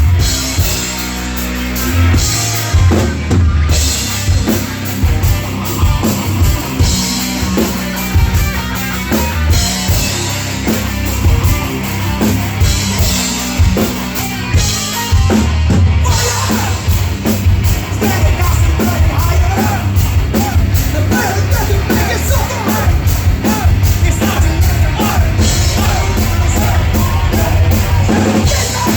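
Rock band playing a song live, with electric instruments and a busy drum-kit beat that grows denser about halfway through.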